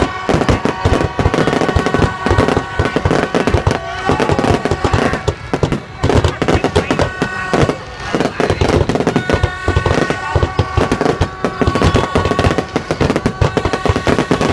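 Fireworks display: a dense, rapid run of bangs and crackling bursts with no let-up.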